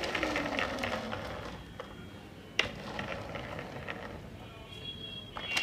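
A plastic toy being handled: faint rattling and small clicks, with one sharp click about two and a half seconds in.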